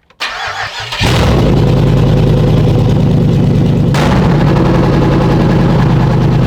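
Starter cranking a 5.3 L LS4 V8 on its first start after an engine swap; it catches about a second in and runs loud and steady, with one sharp crack about four seconds in.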